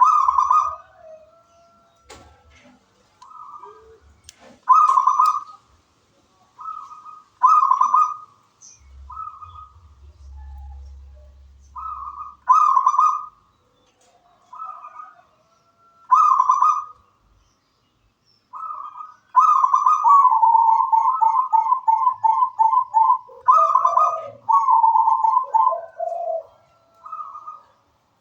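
Zebra dove (perkutut) cooing: short phrases of coos with pauses between them. About twenty seconds in comes a longer run of rapid repeated coos, followed by a few lower notes.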